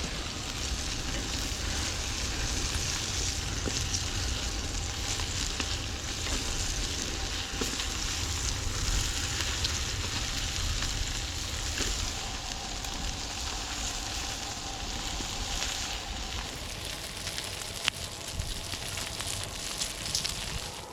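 Brats and bacon sizzling steadily on a grill grate over a campfire, with the fire crackling beneath and one sharp pop about 18 seconds in.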